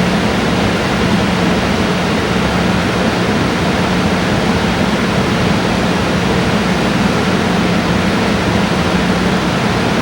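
Steady rushing noise with a low, even hum from a pair of EF64 electric locomotives and their freight train.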